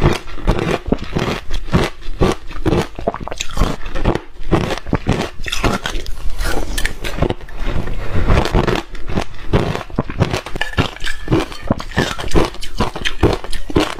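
Reshaved refrigerator ice being bitten and chewed: a quick, uneven run of crisp crunches with no pause.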